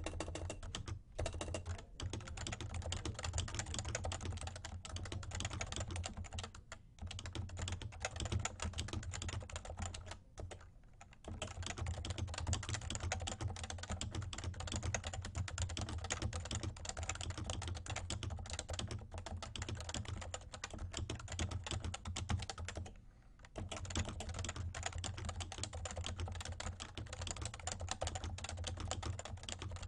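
Continuous typing on a Realforce R2 tenkeyless keyboard with 30 g Topre switches: a dense stream of keystrokes, broken by short pauses about a second in, near seven seconds, around eleven seconds and near twenty-three seconds.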